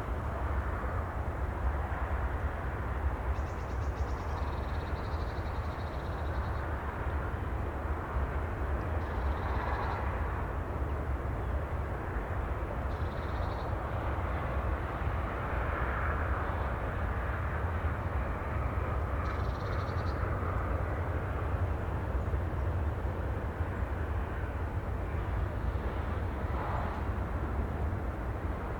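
Steady outdoor ambient noise with a deep rumble and a soft hiss that swells gently now and then, and a few faint, brief high chirps.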